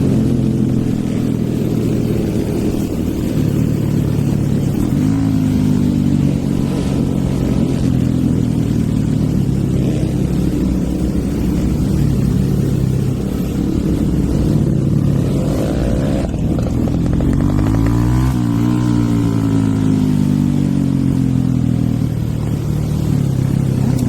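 Hero Eco 150 single-cylinder motorcycle engine with a stage 2 tune, running under the rider while riding. Its pitch rises and falls several times, with a second engine's pitch crossing it about two-thirds of the way through.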